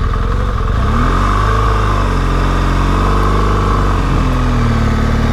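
Motorcycle engine running under way, its pitch rising from about a second in and easing back down a couple of seconds later.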